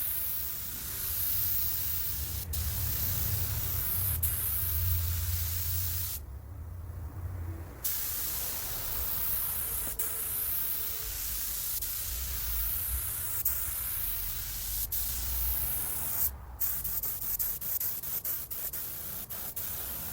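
Harbor Freight air spray gun hissing as it sprays base-coat paint, run at high air pressure. The hiss stops for over a second about six seconds in, then near the end comes in short on-off bursts as the trigger is worked.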